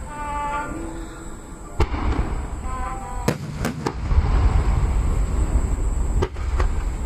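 Fireworks display finale: a continuous low rumble of aerial shell bursts with sharp cracks several times, over music playing from loudspeakers.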